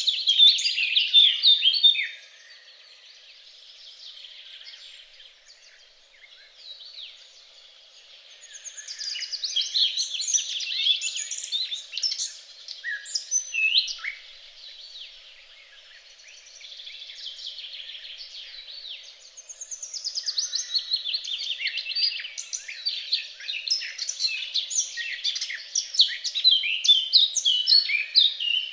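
Songbirds singing: several bouts of fast, high-pitched chirping and warbling notes, each lasting a few seconds, with quieter stretches between them.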